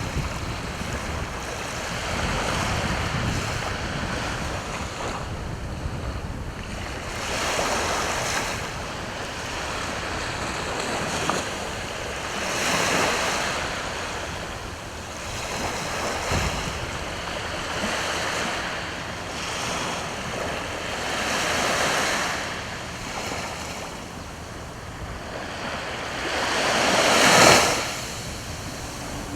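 Sea waves washing in and breaking on the shore, a rush of surf that swells and fades every few seconds, the biggest wave breaking near the end.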